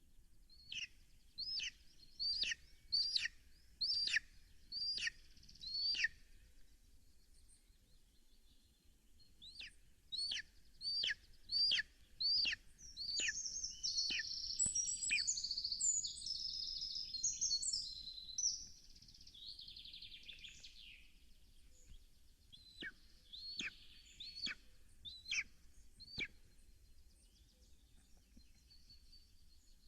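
Birds calling: runs of sharp, high whistled notes, each sliding steeply down in pitch, about one a second, in three groups. In the middle comes a long, jumbled, high warbling song phrase.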